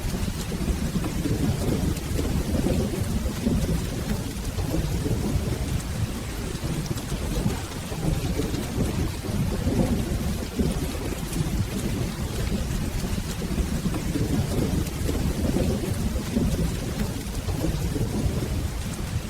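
Steady rain with a low, continuous rumble of rolling thunder underneath.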